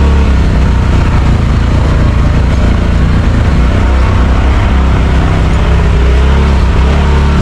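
Side-by-side UTV engine running loud and steady on the trail, its pitch rising and falling a little with the throttle.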